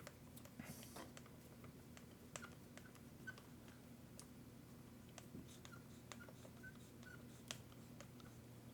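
Faint, scattered clicks and taps of small parts being handled during a bench repair, over a low steady hum.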